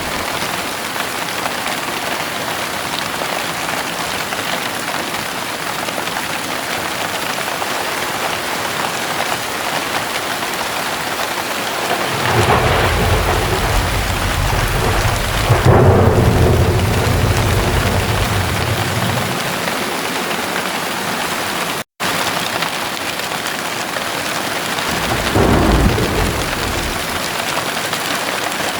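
Heavy rain falling steadily. A long rumble of thunder starts about twelve seconds in and swells for several seconds before fading, and a shorter rumble follows near the end. The sound cuts out for an instant at about 22 s.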